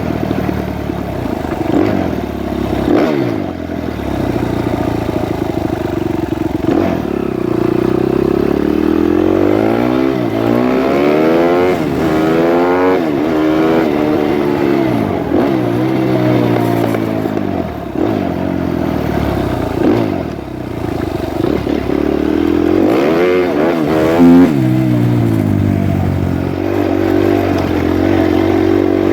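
Suzuki RM-Z250 four-stroke single-cylinder dirt bike engine running, its pitch rising and falling again and again as the throttle is opened and closed. The engine is running properly after a no-start caused by a mismatched camshaft.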